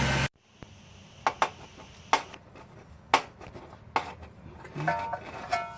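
Sharp, separate metallic clicks, about six of them roughly a second apart, from a Jeep Wrangler's steering linkage joint (drag link or tie rod end) being worked, the clicking that comes from a loose or worn end. An engine idle cuts off abruptly just at the start.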